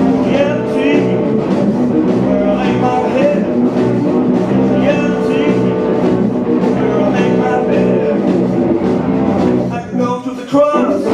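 Live band playing a rock song with guitar and singing, with a brief drop in the music about ten seconds in.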